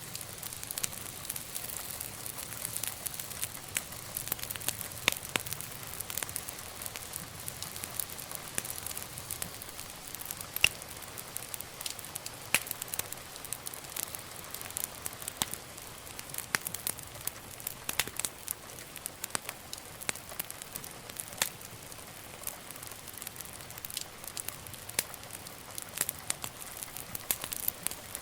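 Wood fire burning in a fireplace, crackling steadily with frequent sharp pops over a soft hiss.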